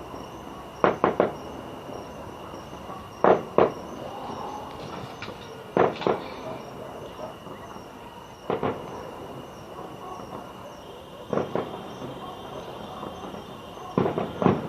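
Aerial fireworks shells bursting overhead: loud bangs, mostly in quick pairs, every two to three seconds, with a cluster of bursts near the end.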